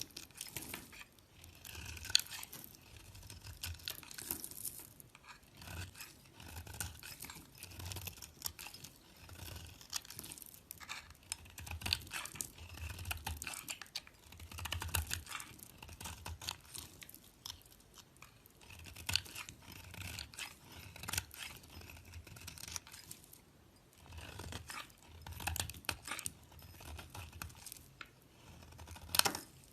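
Soap crunching and crackling in repeated bursts, with dense crisp clicks and soft low thumps.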